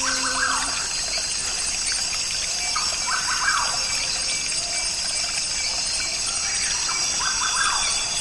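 Rainforest soundscape recording played back: a steady high hiss of running water and jungle background, with a short animal call repeating about every three to four seconds.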